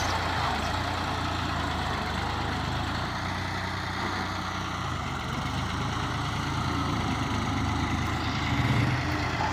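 New Holland tractor's diesel engine running steadily, picking up briefly near the end.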